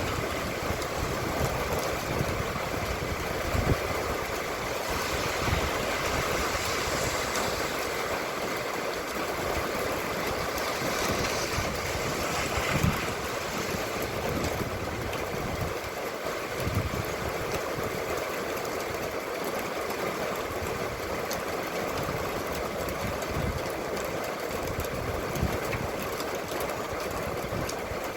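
Steady rain falling, with wind gusts buffeting the microphone in irregular low thumps.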